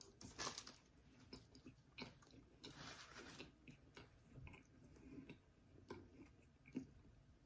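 Faint chewing of a jus-soaked Italian beef sandwich: a bite at the start, then quiet, scattered wet mouth clicks and smacks.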